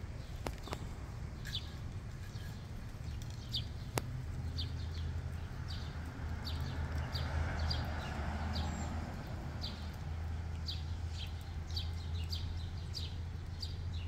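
Short, high bird chirps repeating about once or twice a second, over a steady low rumble that grows stronger a few seconds in.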